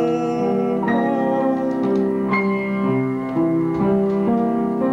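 Piano accompaniment playing slow, sustained chords, a new note or chord struck about every second.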